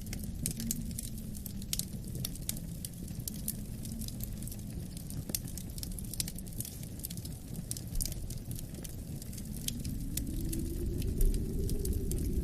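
Wood fire crackling with frequent small sharp pops, over a low rushing wind that swells near the end.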